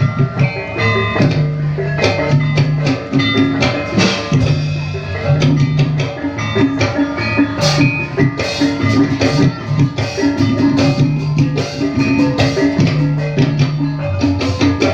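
Javanese ebeg accompaniment music. Drums and struck pitched percussion play a steady, busy rhythm with no pause.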